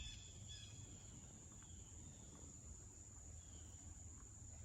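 Near silence: a faint, steady, high-pitched insect drone, with a few faint chirps over a low background rumble.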